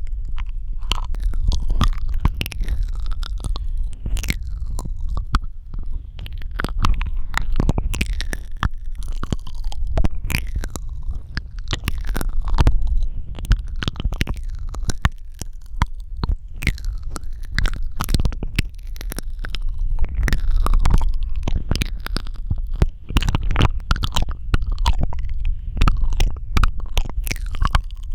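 Close-miked ASMR mouth sounds: a dense, irregular run of wet clicks and smacks from the tongue and lips, over a steady low rumble.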